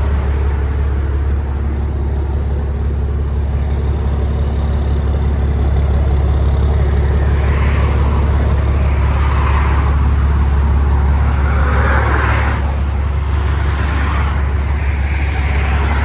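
Tow truck's engine running with a steady low drone, with noisy swells over it in the middle of the stretch.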